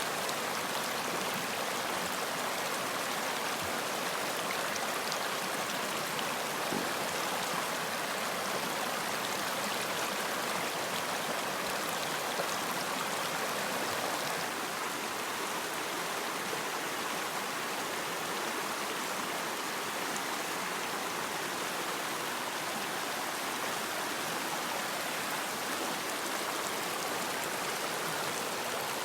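Running water flowing steadily, an even splashing wash with no pauses, a little softer from about halfway.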